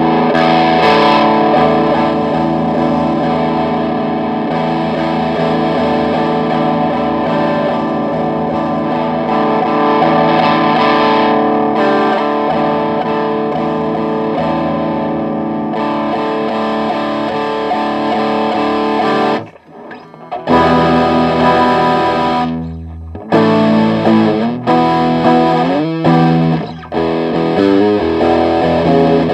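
Electric guitar played through a Behringer TO800 Vintage Tube Overdrive pedal into a Marshall Valvestate amp: overdriven, sustained chords. The playing stops briefly about two-thirds of the way through, then resumes with short chords and a sliding note.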